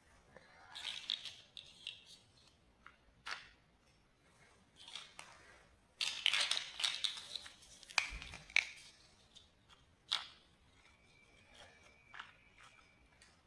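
Small plastic building-block pieces being handled and fitted together: scattered sharp clicks and snaps with short rustling and scraping between them, busiest in the middle.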